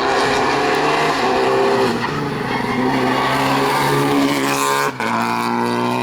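Rally car engine running hard at high revs, its note rising and falling with throttle and gear changes. The engine note breaks off and changes abruptly about five seconds in.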